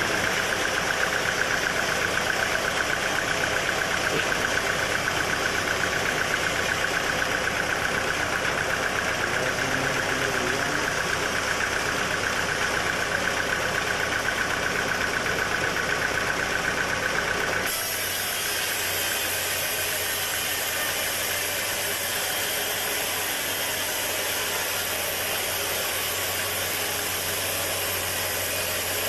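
Sawmill machinery running steadily: an engine with the saw's steady whine. About two-thirds of the way through, the sound changes abruptly to a slightly quieter, lower machine drone without the whine.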